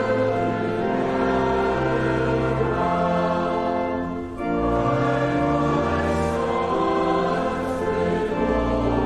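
Congregation singing a hymn together with instrumental accompaniment, in long held notes over a low sustained bass. There is a brief pause for breath about four seconds in.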